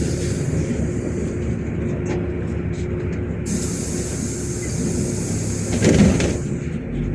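Inside a moving LiAZ 5292.65 city bus: steady engine and road rumble with a constant whine. A spell of hissing starts about halfway through, and a single knock comes near the end.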